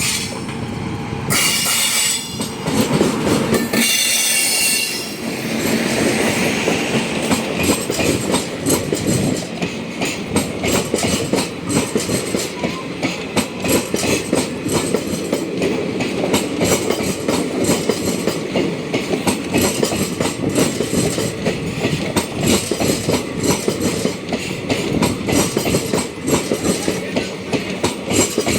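Train passing close by, its wheels running over the rail joints in a rapid, continuous clickety-clack. Two shrill, high-pitched sounds come in the first few seconds, before the wheel beat settles in.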